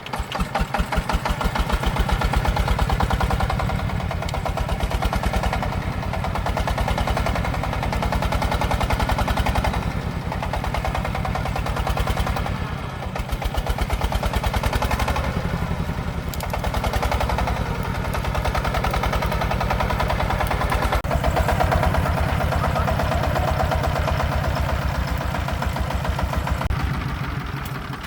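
Single-cylinder diesel engine of a công nông farm vehicle running with an even, rapid thudding beat. Its speed and loudness ease off and pick up again a few times.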